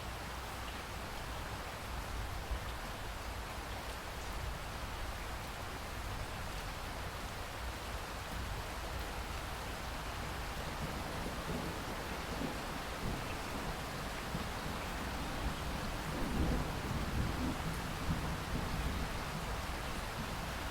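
Steady rain falling, with a low rumble of thunder building from about halfway through and loudest a few seconds before the end.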